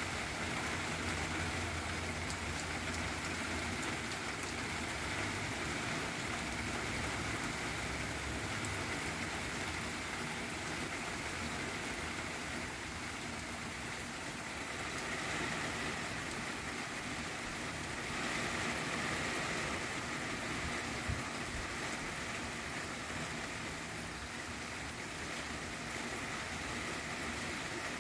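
Steady heavy rain falling, with a low rumble under it for the first nine seconds or so.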